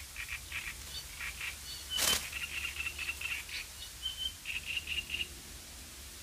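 Small birds chirping and chattering in short, repeated high notes, with one brief loud burst of noise about two seconds in.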